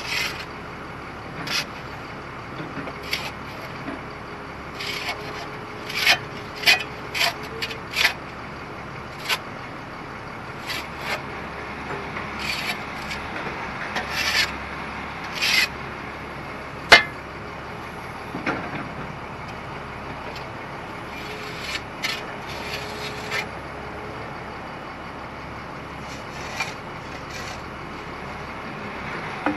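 Caterpillar 336E excavator tearing apart the wooden poles and dirt of an old potato cellar: repeated scraping, crunching and cracking of timber over the machine's steady engine, with one sharp crack about seventeen seconds in.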